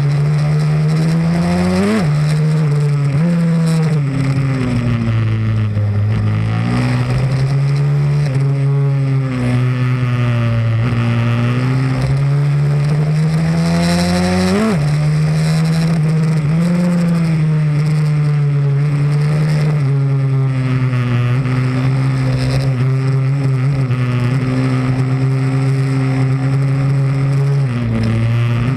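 Pit bike's single-cylinder four-stroke engine running hard, its pitch climbing steadily and then dropping sharply twice, about two seconds in and again about halfway. Otherwise it rises and falls with the throttle.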